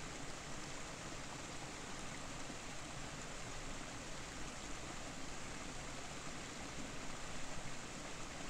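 Steady rushing of a waterfall, an even wash of falling water with no change.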